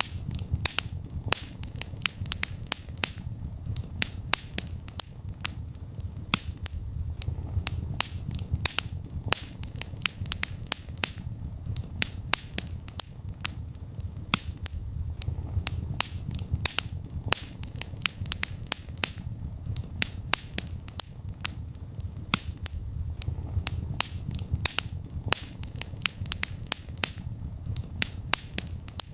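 Wood fire in a fireplace crackling: many sharp pops and snaps, several a second, over a low steady rumble of the flames.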